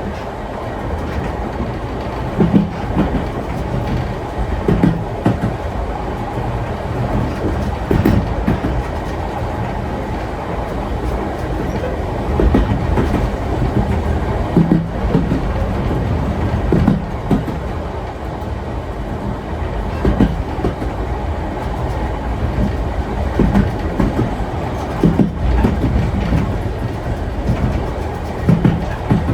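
Vintage steam train rolling along the track: a steady low rumble, with the wheels clacking over rail joints every two to three seconds.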